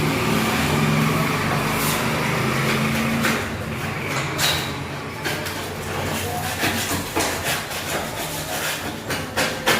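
A steady engine hum for the first few seconds, fading into a string of sharp knocks and clicks that carry on to the end.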